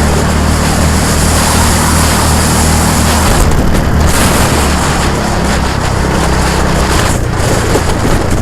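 A vehicle engine running steadily under heavy wind noise on the microphone, its low note shifting slightly about three seconds in.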